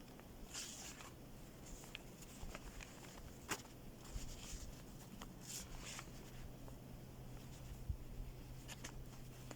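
Scattered soft rustles and light clicks at irregular intervals, over a faint steady low hum.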